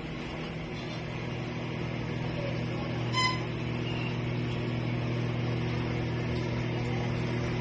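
Hanabishi HMO-20MBD digital microwave oven running with a steady hum. A short electronic beep sounds about three seconds in.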